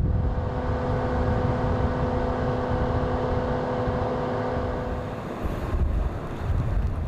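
Car engine held at steady revs, a constant hum with a hiss over it, which stops suddenly about five seconds in. Gusty wind on the microphone and a low rumble follow.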